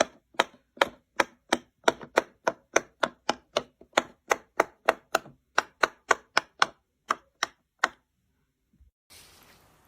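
A steady run of sharp, crisp chopping strikes, about three a second, that stops about eight seconds in; a faint hiss begins near the end.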